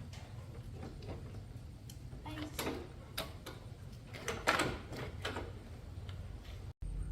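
Scattered light clicks and knocks, like hand tools and small parts being handled, over a low steady hum; the sound drops out for an instant near the end.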